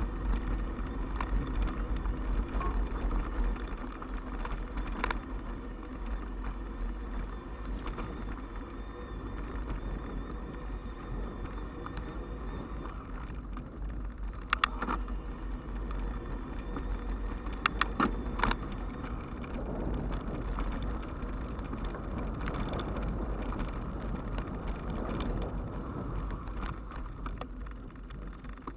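Ride noise from an e-bike: wind rumbling on the microphone over the steady rolling of tyres on the road, with a few sharp knocks about halfway through.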